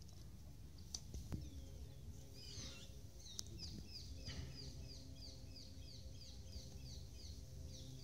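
A bird calling a quick, regular series of short, high, falling notes, about three a second, starting about three seconds in, over a low outdoor rumble. There are a few sharp clicks about a second in.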